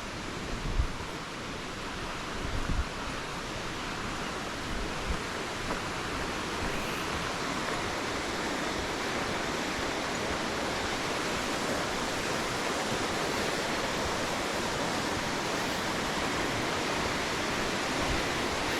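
Rushing water of a river or stream, a steady hiss that grows gradually louder over the first several seconds and then holds steady, with a few low thumps near the start.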